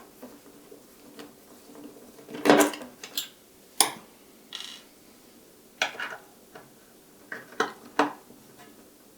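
Irregular light metal clicks and clinks of small screws being taken out of a metal cover plate and handled, about a dozen knocks, the loudest a clatter about two and a half seconds in.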